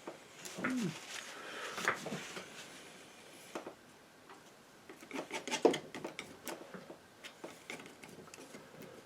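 Palette knife scraping and tapping paint in short, irregular strokes, with a cluster of sharper clicks and scrapes a little past the middle.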